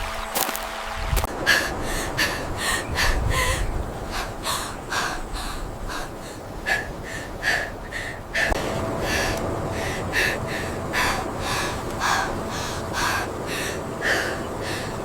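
A person breathing hard in a run of short, quick gasping breaths, about two to three a second, over a low background rumble.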